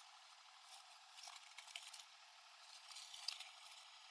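Near silence with faint rustling and crinkling in two short spells, about a second in and again around three seconds: work gloves being pulled on.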